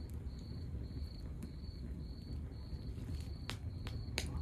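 Wood fire burning in a fireplace with a low rumble and a few sharp crackles and pops near the end, while a cricket chirps steadily about twice a second.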